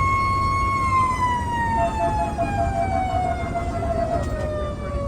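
A fire engine's mechanical siren holds a steady high pitch, then winds down in a long, slow falling glide from about a second in, over the low rumble of the moving engine.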